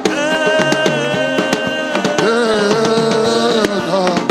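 Gospel worship music: a long held melodic note, wavering slightly near the middle, over a steady beat of drums and hand percussion.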